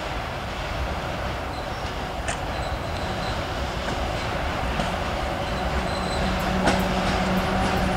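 Škoda-built class 140 electric locomotive hauling a container freight train as it approaches, its rumble slowly growing louder with a few sharp clicks. A steady low hum comes in about six seconds in.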